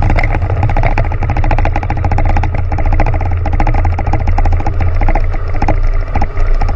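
Loud, continuous low rumble with dense crackling, the aftermath of an underwater shock-trial explosion against the aircraft carrier.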